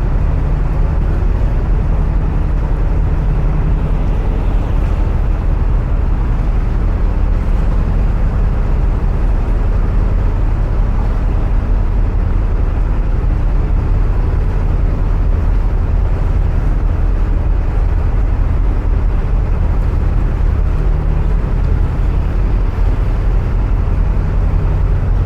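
Narrowboat's diesel engine running steadily at cruising speed, a constant low throb inside the enclosed canal tunnel.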